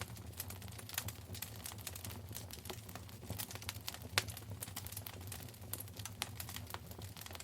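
Wood fire in a fireplace crackling, with many irregular small pops and snaps and a sharper pop about four seconds in, over a steady low rumble.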